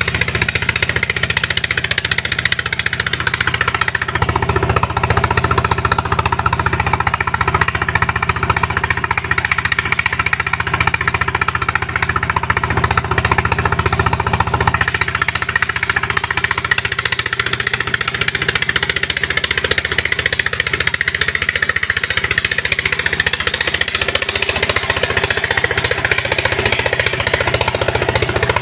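Engine of a sand-suction pump machine running steadily without a break.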